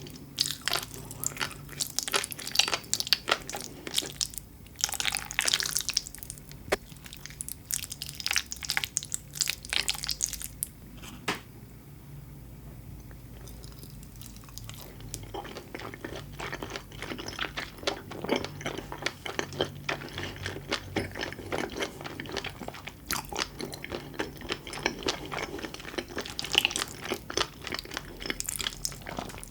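Close-miked eating of tobiko roe, beef tartare and sea grapes: wet chewing full of small pops and clicks. It quiets for a few seconds near the middle, then picks up again.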